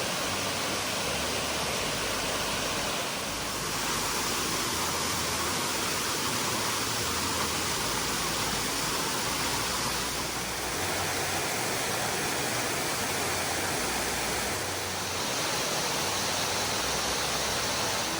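Steady rush of water from a waterfall, Trahlyta Falls, an even unbroken roar of falling water.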